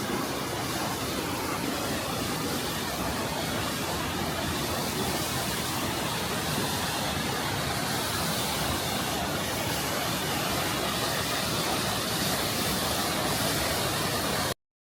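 Steady rush of water falling at Düden Waterfall, cutting off abruptly near the end.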